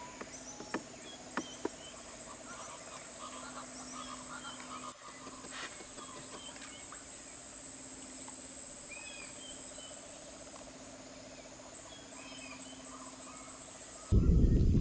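Rainforest chorus: a steady high insect drone and lower pulsing trills, with scattered short bird chirps and whistles and a few clicks in the first two seconds. About a second before the end, a loud low rushing noise cuts in abruptly.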